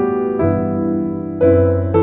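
Instrumental music: soft piano or electric piano playing sustained chords, a new chord struck about half a second in and again near the end.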